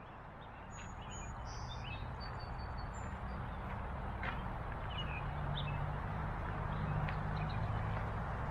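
Steady outdoor background noise with a low hum, and a few faint, brief bird chirps scattered through it.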